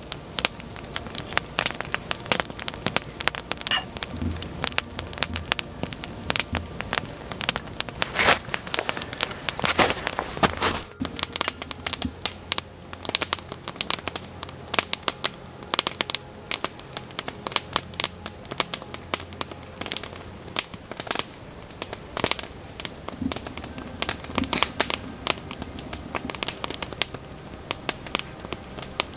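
Wood campfire crackling, with many small irregular pops and snaps.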